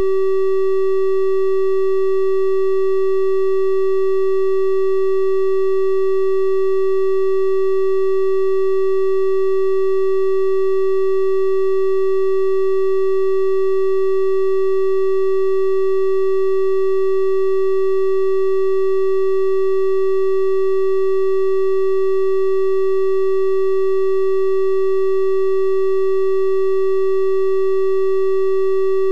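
A steady electronic 384 Hz triangle-wave test tone, held at one constant pitch and level, with faint higher overtones above the main note.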